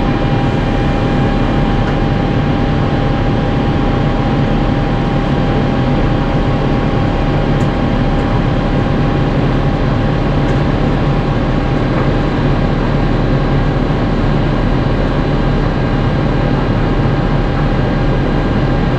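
Cabin noise inside an Airbus A350-900 in flight after takeoff: a steady loud rush of airflow and Rolls-Royce Trent XWB engine drone, with a few steady whining tones running through it.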